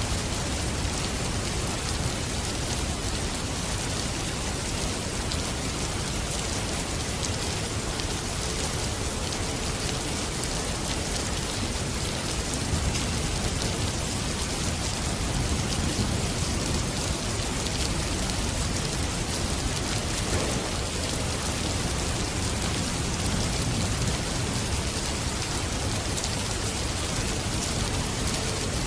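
Steady heavy rain falling, a dense even hiss with the patter of individual drops and a low rumbling undertone.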